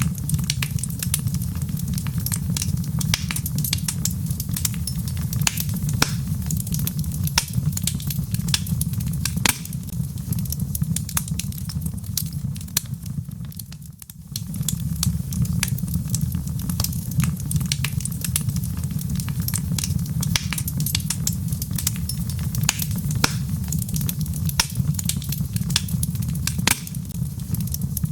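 Log fire crackling, with frequent sharp pops over a steady low roar of flame. The sound briefly fades and comes back about halfway through.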